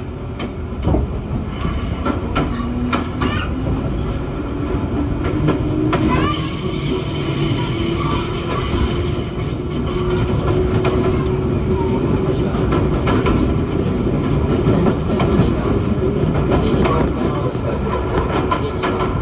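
JR East 205 series 1100 subseries electric train with field-added excitation control running, heard from on board: the traction motor tone rises in pitch during the first half and then holds steady, over wheel rumble and rail-joint clicks that are frequent early on. A high wheel squeal sounds for a few seconds about six seconds in.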